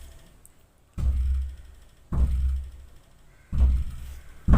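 A run of deep, drum-like booming thuds, four of them about a second apart, each fading out slowly.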